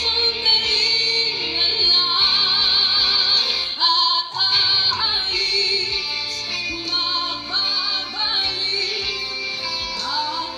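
A woman singing a Filipino ballad with wide vibrato over band accompaniment, in a live TV performance heard through the video's audio.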